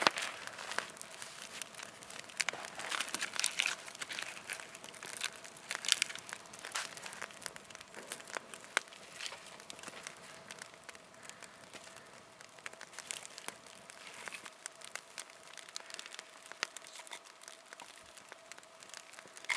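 Small fire of birch bark and kindling sticks catching, giving irregular sharp crackles and pops, mixed with rustling and crunching of dry material being handled.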